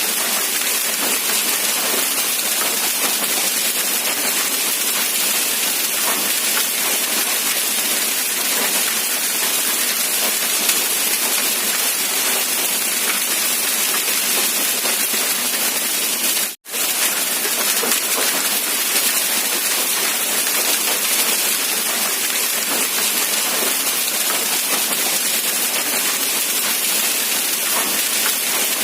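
Steady rain falling in an even, dense hiss. It cuts out to silence for a split second a little past halfway through, then resumes unchanged.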